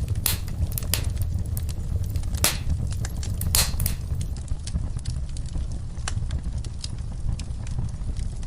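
Wood fire in a fireplace crackling: frequent sharp pops and snaps over a steady low rumble of the flames. The louder pops fall in the first four seconds.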